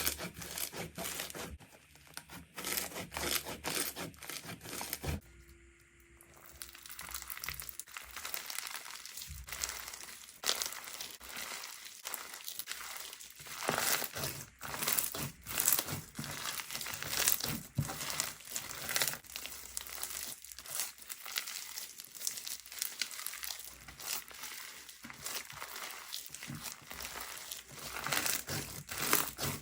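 Slime being squished and played with, making dense, irregular small clicks and pops. The sound changes character about five seconds in as one slime clip gives way to another.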